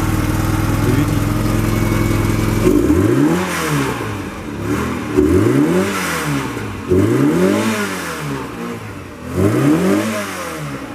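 Classic car engine idling steadily, then blipped four times, each rev rising and dropping back to idle about every two seconds.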